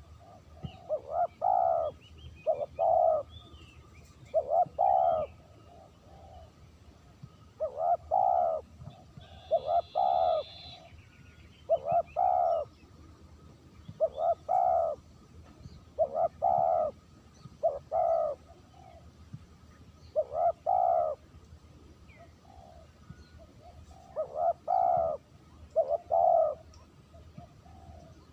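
Spotted dove (terkukur) cooing, repeating its short phrase of two or three low coo notes every couple of seconds.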